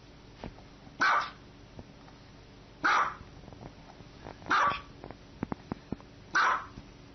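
Small white Maltese-type dog barking: four single barks about two seconds apart, with a few faint clicks between the third and fourth.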